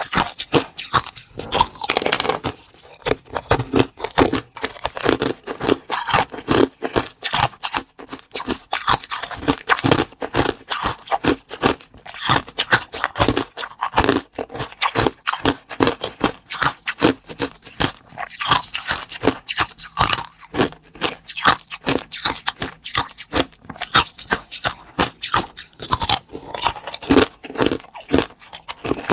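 A person biting and chewing crunchy food close to the microphone: dense, irregular crunches that keep coming with hardly a pause.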